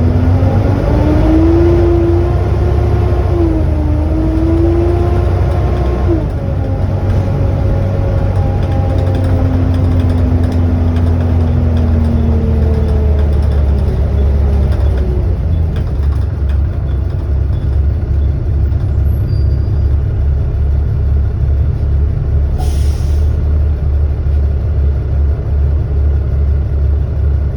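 Volvo B7TL double-decker bus's diesel engine and drivetrain under way, with a hoover-like whine that climbs in pitch over the first few seconds. The whine drops at a gear change about six seconds in and fades out, leaving a steady low engine throb. A short hiss of air comes about three quarters of the way through.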